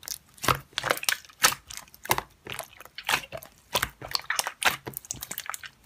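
Slime being squeezed and poked by hand, giving an irregular string of sharp clicks and pops, several a second.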